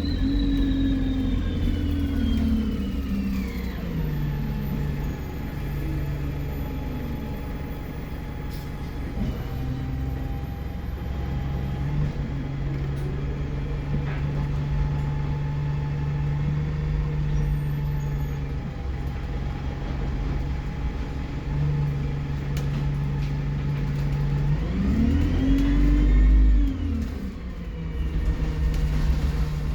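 Alexander Dennis Enviro 200 bus's diesel engine and turbocharger. A high turbo whistle falls away over the first few seconds as the engine eases off, the engine runs steadily, then about 25 seconds in it revs up with the whistle rising and falling again.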